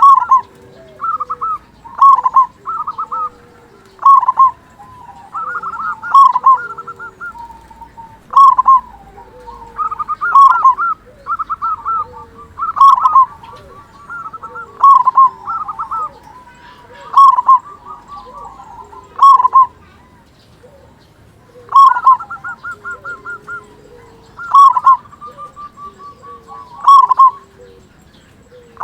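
Local zebra dove (perkutut) cooing: a loud phrase about every two seconds, each a quick run of short stuttering notes ending in a stronger coo.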